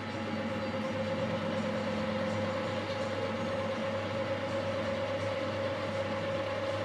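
Metalworking lathe running steadily with a constant whine over a low hum.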